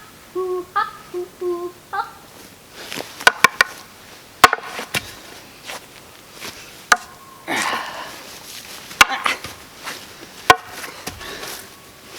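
A person humming a few short notes, then a scatter of sharp knocks and clicks, a few in quick succession and then single ones every couple of seconds, with a brief rustle about halfway through.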